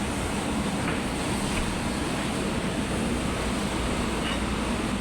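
Steady rushing mechanical noise with a faint high whine running through it.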